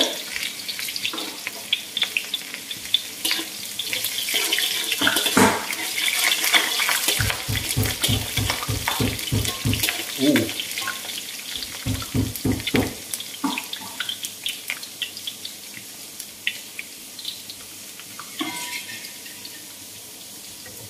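Garlic, onion and ginger sizzling in hot olive oil in a wok, with a metal spatula scraping and clicking against the pan as they are stirred. Near the middle come two runs of quick even strokes, about five a second.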